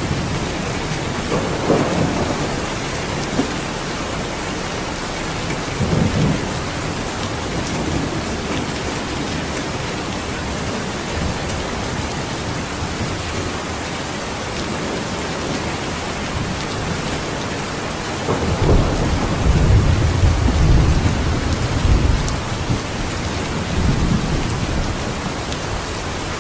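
Steady heavy rainfall with rolling thunder: short rumbles a couple of seconds in and again about six seconds in, then a longer, louder rumble starting around eighteen seconds in.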